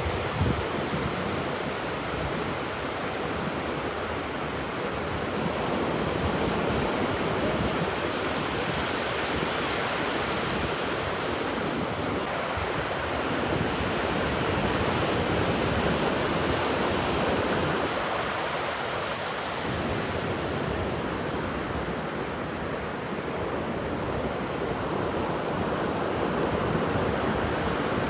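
Ocean surf washing ashore, a steady rushing noise that swells and eases slightly, with wind buffeting the microphone.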